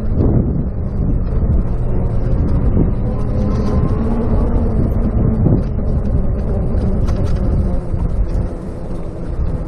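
Steady rumble of wind and road noise at a chest-mounted action camera's microphone while riding an electric bicycle, easing slightly near the end.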